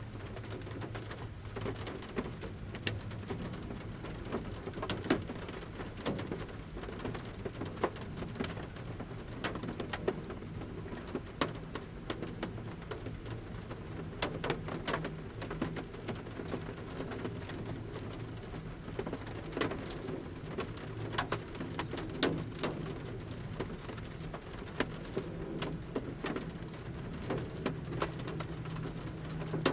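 Large raindrops from a forest canopy falling on the metal roof of a camper van, heard from inside: sharp taps at irregular intervals over a soft steady patter of light rain.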